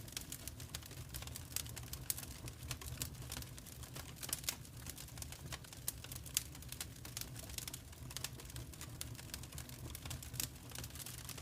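Wood fire crackling: irregular sharp pops and snaps over a steady low rumble, with a few louder pops standing out.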